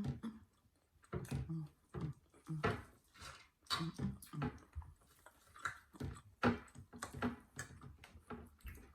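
Eating sounds from a steak-and-eggs meal: chewing with irregular clicks and knocks.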